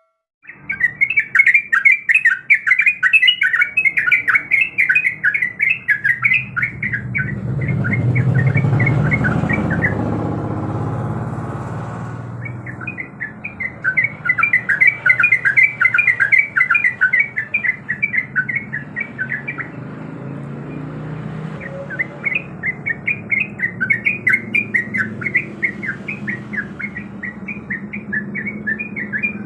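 Sooty-headed bulbul singing energetically: long bouts of rapid, repeated chattering notes, broken by short pauses. A low rumble swells and fades in the middle.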